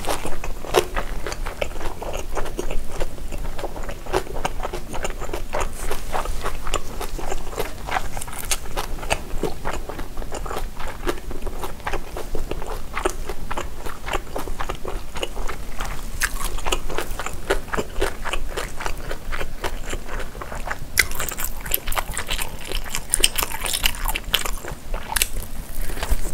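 Close-miked biting and chewing of a large grilled tteok-galbi (Korean minced-beef patty) eaten by hand: a steady run of moist clicks and crunches, with sharper, louder bites from about two-thirds of the way in.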